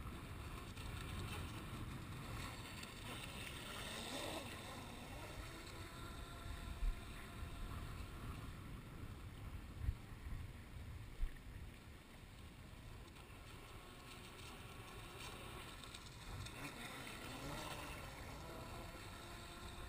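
Kyosho Hurricane electric RC speedboat on a 3-cell LiPo running across the water at a distance. Its faint motor whine rises and falls with the throttle under wind on the microphone. Three short knocks come in the middle.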